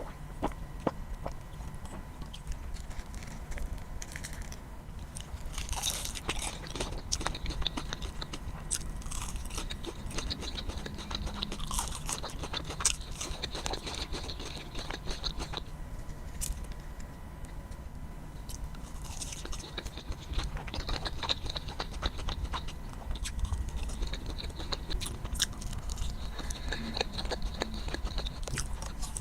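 Close-miked biting and chewing of crispy fried food, with crunches and crackles coming in bouts and many sharp clicks.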